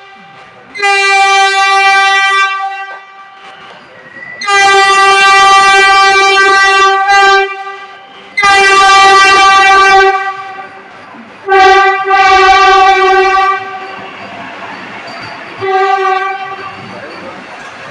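Vande Bharat Express train horn sounding five long blasts of one steady pitch as the train arrives, with the rushing of the moving train building up under the last blast.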